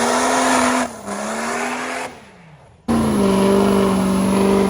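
Diesel pickup truck engine held at high revs, loud and steady in pitch; it drops away about two seconds in and comes back suddenly about a second later at high revs again.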